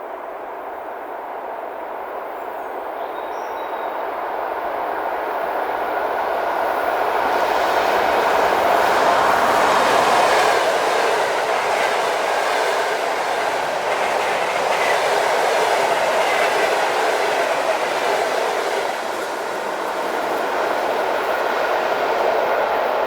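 Electric train approaching and passing, growing steadily louder over the first ten seconds, with a brief dip about nineteen seconds in.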